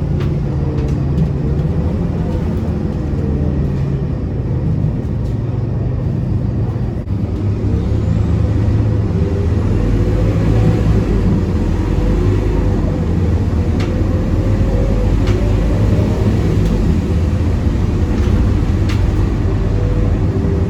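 Scania K230UB Euro 5 bus's engine running while the bus is under way, heard from inside the cabin as a steady low drone. About seven seconds in it dips briefly, then comes back louder and deeper, with a few faint rattles later on.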